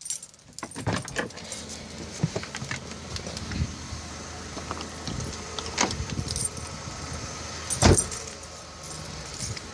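Scattered clicks and light rattles of something being handled in a car whose engine has just been switched off, with one loud knock about eight seconds in.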